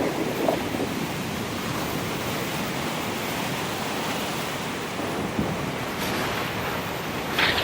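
Sea surf washing steadily, a continuous hiss of breaking water, with a louder surge near the end.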